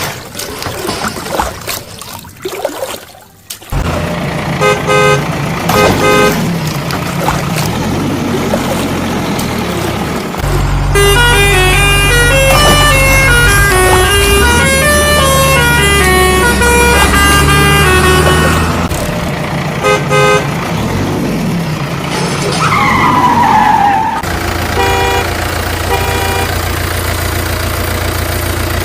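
Vehicle horns sounding over a steady engine hum: several short toots, and from about eleven seconds in a long horn run of many changing notes, like a musical horn playing a tune. A falling tone follows about a second later.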